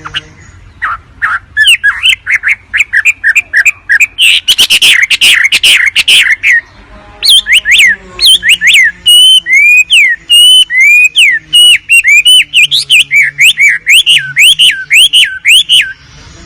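Wambi (hwamei) song, loud and varied: fast runs of repeated chirps with sharp clicky notes, a short break, then a long series of slurred whistled notes at about three a second that ends abruptly near the end. This is a recorded master song of the kind played to train or lure songbirds.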